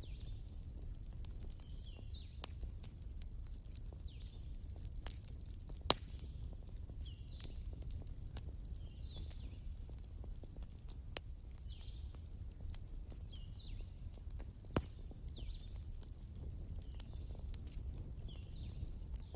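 Wood fire burning with a steady low rumble and scattered crackles, a few sharper pops standing out about six, eleven and fifteen seconds in. Faint short chirps repeat about every second in the background.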